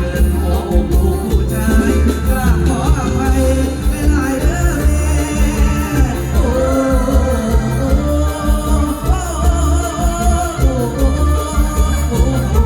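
Live mor lam band music: a singing voice over the band, with a heavy, steady bass beat.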